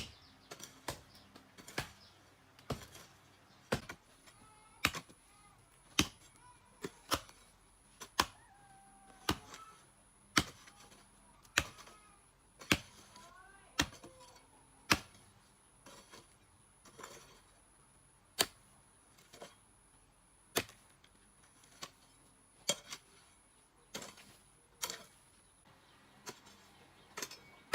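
A hand tool striking over and over in a steady rhythm, about one loud blow a second with lighter taps in between, as in construction work.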